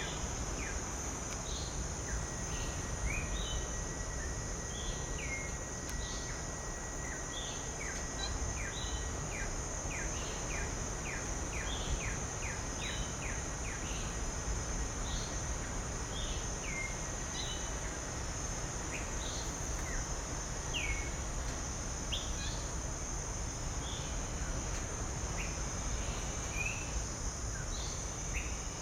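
Wild birds calling with short, scattered notes, a quick run of them about a third of the way in, over a steady high-pitched insect drone and a low background rumble.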